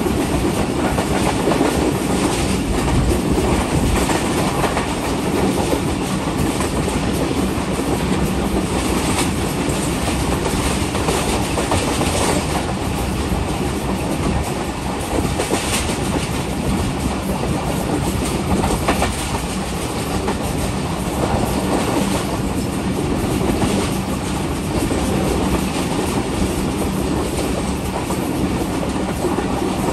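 Passenger train running along the track: a steady rumble and hiss of the coaches with wheels clattering over rail joints.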